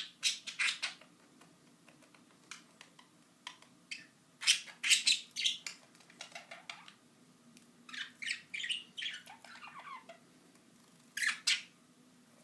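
Pet budgerigars chirping and squawking in short clusters of sharp calls, with a few falling notes about nine to ten seconds in.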